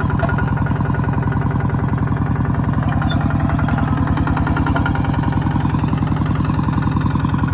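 Kubota farm machine's diesel engine running steadily with a fast, even beat.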